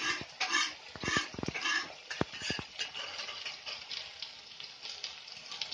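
Batter frying in hot oil in a wok, a steady sizzle. Over it, in about the first two seconds, comes a run of short, repeated animal calls.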